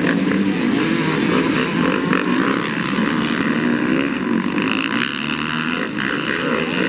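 Motocross bike engines running on the track, their pitch rising and falling as the throttle opens and closes.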